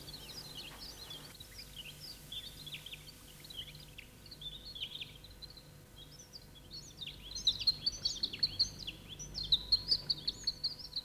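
Birds chirping: many short, high calls overlapping one another, growing busier and louder in the second half.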